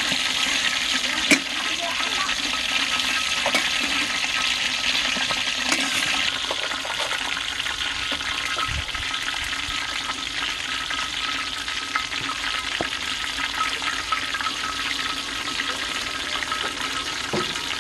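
Chicken sizzling steadily in hot oil, with a metal spatula scraping and clinking in the frying pan as the pieces are stirred; one sharp knock of the spatula on the pan about a second in. The sizzle eases a little after about six seconds.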